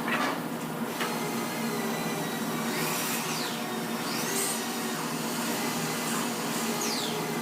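A small electric motor running steadily with an even hum, and a few brief whistling tones sliding down in pitch over it.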